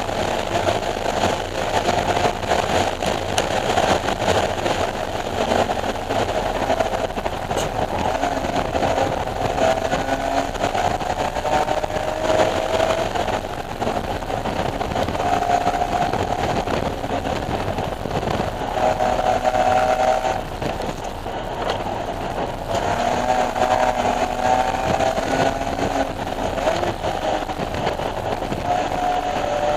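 BMW E46 M3's S54 straight-six engine running hard on track: its pitch climbs over a few seconds at a time, then drops as it shifts or lifts off, again and again, over steady road and wind noise.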